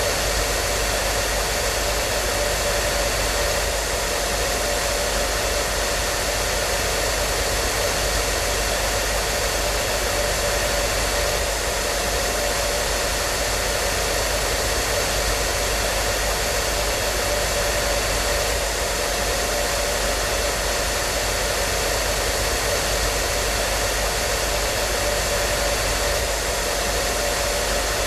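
Electric hair dryer running steadily: a constant rushing airflow with a faint motor whine.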